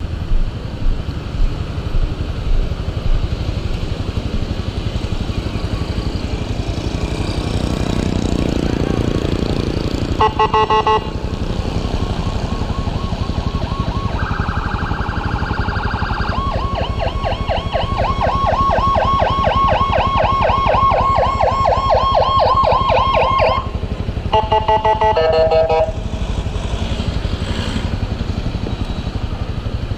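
Emergency vehicle siren switching between patterns: a short pulsing burst about ten seconds in, a steady tone, then a fast warble lasting several seconds and another short pulsing burst. Under it runs the steady noise of a moving vehicle.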